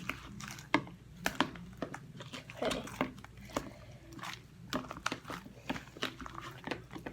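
Slime being mixed in a bowl: irregular wet squelches and sharp crackles, a few a second.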